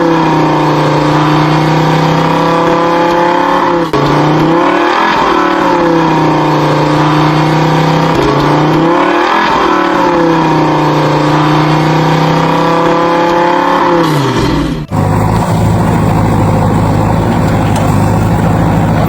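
Vehicle engine revving, its pitch rising and falling in repeated swells about every four seconds. About 15 seconds in it cuts to a steady, lower engine drone.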